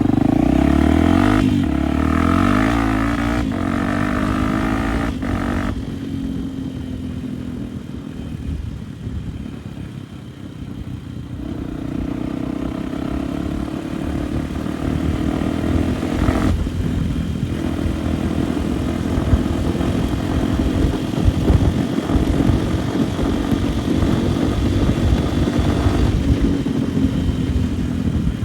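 Off-road motorcycle engine under way, revving up in pitch with brief breaks between gears, then running at a steadier speed, over a low wind rumble.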